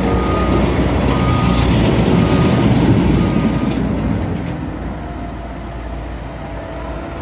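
Caterpillar 910H wheel loader's diesel engine running, with its reversing alarm beeping about once a second for the first few seconds. The engine grows louder, then drops to a lower, steadier level about halfway through as the beeping stops.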